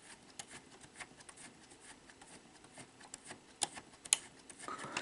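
Faint, scattered small clicks and ticks of a VCR's plastic loading gears and tape guides being worked back toward home position, with two sharper clicks near the end.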